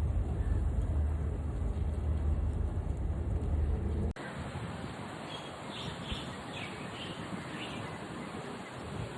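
For the first four seconds a strong, steady low rumble fills the sound. It cuts off abruptly, and quieter outdoor background noise follows. Over the last few seconds a bird gives a series of short, high chirps.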